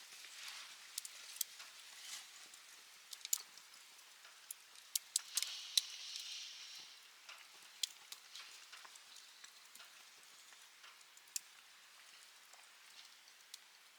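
Wood campfire crackling, with sharp irregular pops over a soft hiss and a brief louder hiss about five to seven seconds in.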